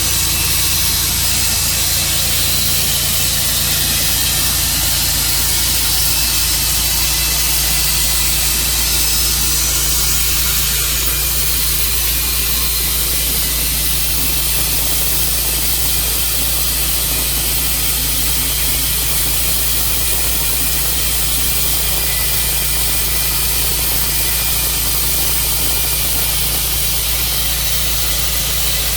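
Sawmill running steadily: a low engine drone under an even, high hiss from the saw.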